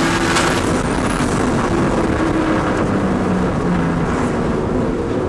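BMW drift car's engine running hard, heard from inside the cabin, its note shifting up and down in pitch with the throttle over a loud, steady rush of noise.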